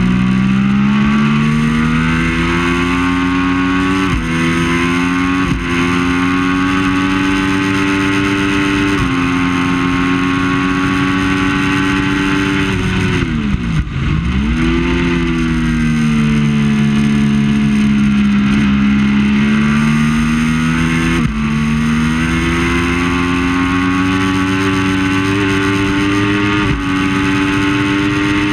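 Triumph Daytona 675's three-cylinder engine at racing revs, pulling up through the gears with a pitch drop at each upshift, three in the first third. Near the middle the revs fall sharply and come back as the bike brakes and downshifts. It then accelerates again through two more upshifts.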